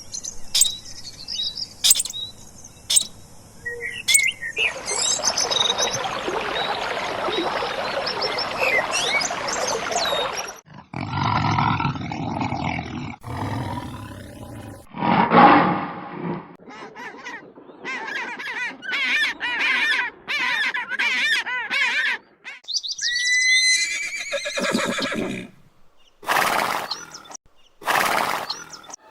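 A string of short recordings of different animal calls, cut one after another every few seconds.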